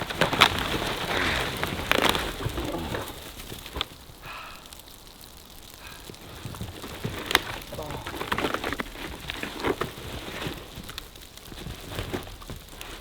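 Dry twigs and dead branches snapping and crackling as they are broken and gathered by hand, with rustling in between. The snaps come irregularly, thickest in the first few seconds.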